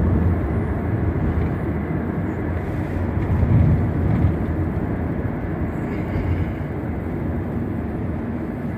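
Steady road and tyre noise with engine hum heard from inside a car's cabin at freeway speed.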